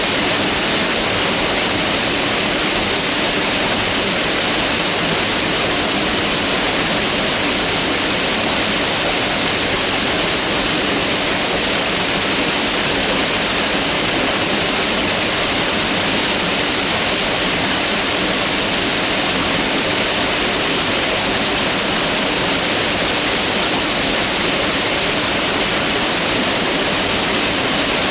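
A mountain river rushing over rocks in a steady, loud roar of water.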